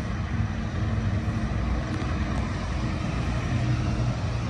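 Steady low rumble of a motor vehicle engine running, with a faint constant hum and no change in pitch.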